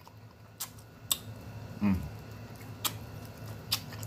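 Close-miked chewing of fried chicken: a few sharp, separate wet mouth clicks and smacks, with a short low mouth sound about two seconds in.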